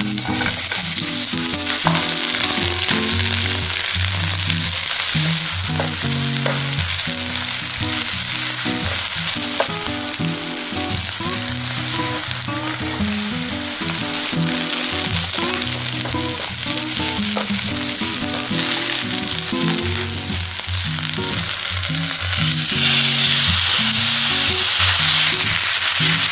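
Sliced onion sizzling in hot oil in a nonstick frying pan, with chopped green onion going in partway through. Near the end the sizzle grows louder as thin-sliced pork belly goes in and is stirred with a spatula.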